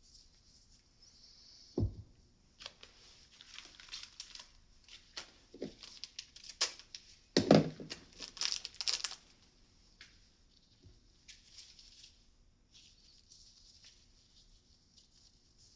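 Crinkling and rustling from hand work with small parts, with scattered clicks and two louder knocks, about two seconds in and again about seven and a half seconds in.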